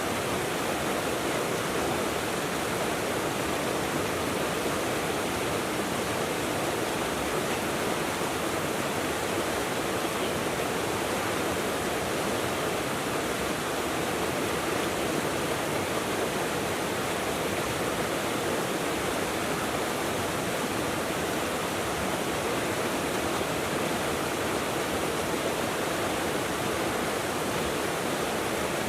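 Mountain river rushing steadily, an even, unbroken roar of flowing water.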